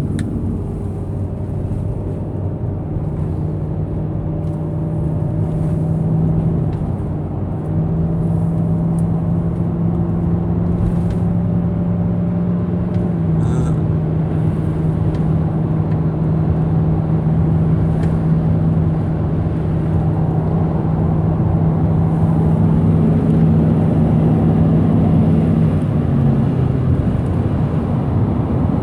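Car driving at road speed, heard from inside the cabin: a steady engine hum over tyre and road rumble. The hum's pitch shifts slightly a couple of times and drops lower near the end as the speed changes.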